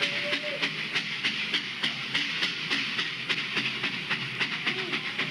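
Steam train chugging: a steady rhythm of hissing chuffs, about four to five a second.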